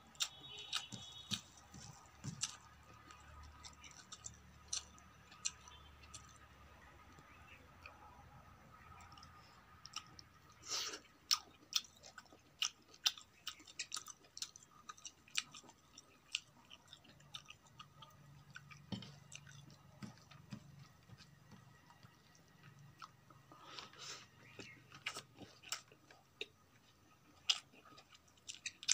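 Close-miked chewing of rice and cooked leafy greens and vegetables eaten by hand, with many short, sharp, irregular mouth clicks.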